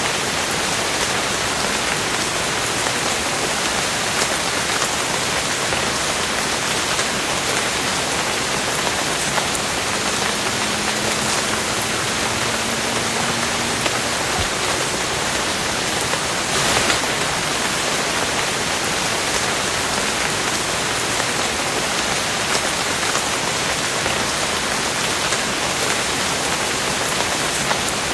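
Steady rain falling, an even hiss with scattered drop ticks and one sharper tick about two-thirds of the way through.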